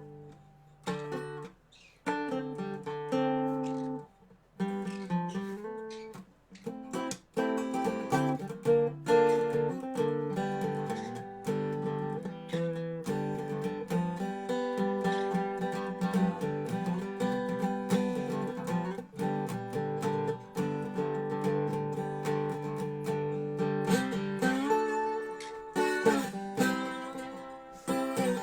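Dobro resonator guitar being played: a few short phrases with brief pauses, then steady unbroken picking from about a quarter of the way in.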